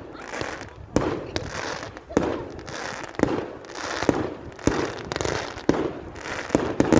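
Fireworks display: a run of sharp bangs, roughly one or two a second, with a noisy rumble between them.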